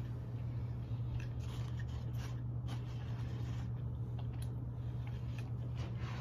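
Chewing of a chicken biscuit close to the microphone: soft, scattered mouth clicks and smacks every second or so, over a steady low hum.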